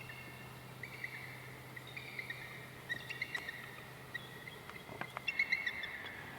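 Wild birds calling: a series of short, high chirping notes in quick clusters, busiest about three seconds in and again near the end.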